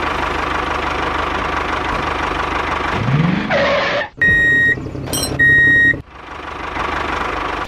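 Small engine running steadily; about three seconds in the pitch rises briefly, then two long electronic beeps sound about a second apart before the engine sound picks up again.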